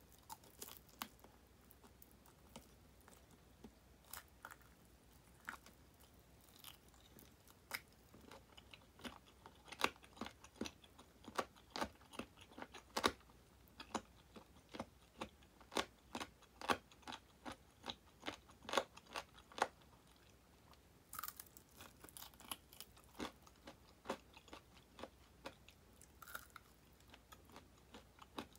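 Close-miked biting, crunching and chewing of crispy deep-fried chicken wing drumettes ('tulips'): sharp crackles of the fried crust, thick and fast through the middle stretch and sparser at the start and end.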